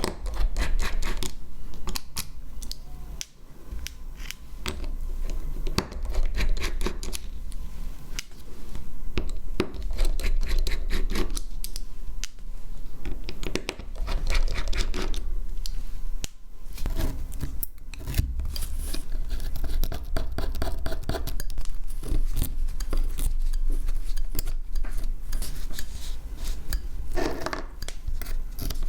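Small repair tools scraping, scratching and clicking irregularly against a Samsung Galaxy S10e smartphone, over a steady low hum.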